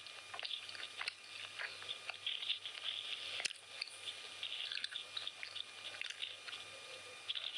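A person chewing a mouthful of chicken biryani: irregular moist mouth sounds with many small clicks and crackles.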